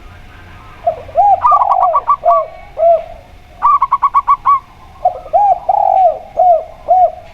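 A zebra dove and a spotted dove cooing over each other. The spotted dove gives two phrases of lower, drawn-out coos. Between and over them the zebra dove gives two quick runs of short, higher-pitched coo notes.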